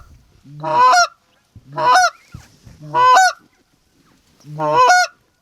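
Four loud Canada goose honks blown on a hunter's goose call, evenly spaced at first with a longer gap before the last. Each starts on a low note and breaks sharply upward into a high honk.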